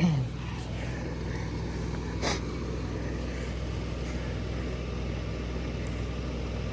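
Vehicle engine idling steadily, with a short sharp click about two seconds in.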